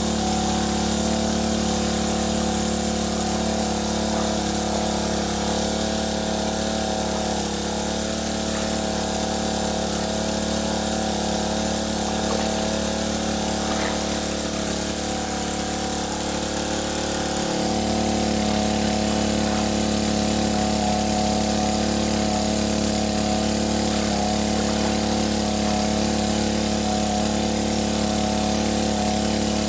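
A motor running steadily with a constant drone, its low tone shifting slightly a little over halfway through.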